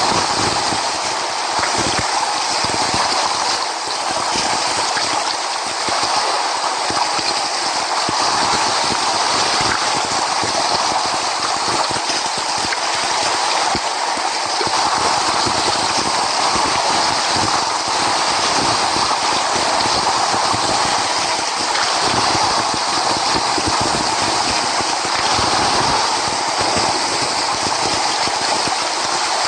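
Steady rushing of sea surf, an even noise without breaks.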